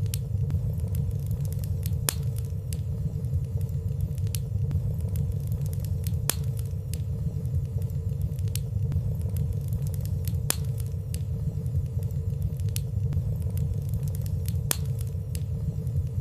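Fireplace fire burning: a steady low rumble of flames with frequent light crackles, a few sharper ticks standing out about every four seconds.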